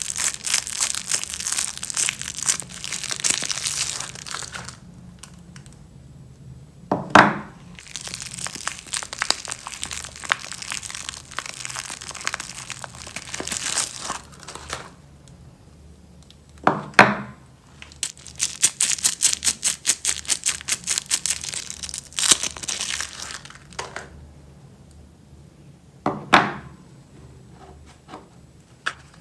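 Wrappers crinkling and tearing as bars of soap are unpacked, in several long spells of dense crackling with quieter pauses between them. Three short, sharp knocks, the loudest sounds, come about 7, 17 and 26 seconds in.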